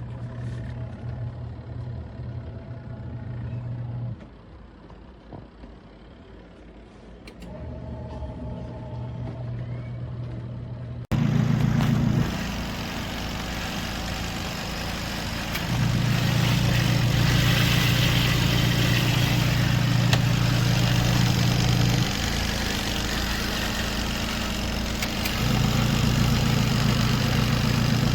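Small twin-tub washing machine's wash motor running in spells of a few seconds, stopping and starting again as the agitator cycles. About eleven seconds in, the hum becomes louder and is joined by a steady hiss.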